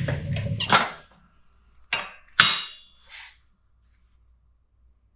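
Hammer blows on metal: a quick run of knocks in the first second, then two sharper separate strikes about two seconds in, the second one ringing.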